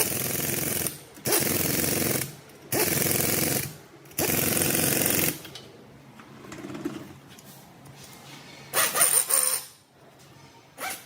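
A hammering power tool, of the impact wrench or air hammer kind, runs in four bursts of about a second each with short pauses between. A shorter, sharper burst with a high ringing edge comes near the end.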